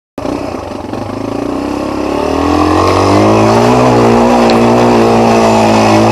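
Off-road motorcycle engine running under throttle: its pitch climbs over the first couple of seconds as it revs up, then it holds steady at high revs.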